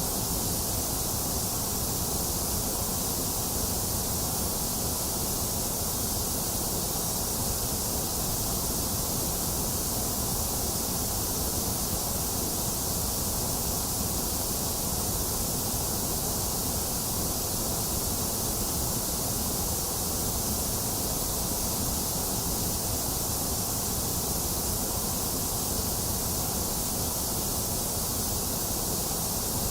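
Generated white noise: a steady, even hiss that does not change.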